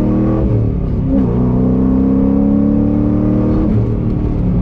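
Car engine accelerating hard, heard from inside the cabin: the engine note climbs steadily, drops with an upshift about a second in, then climbs again and drops with another shift near the end.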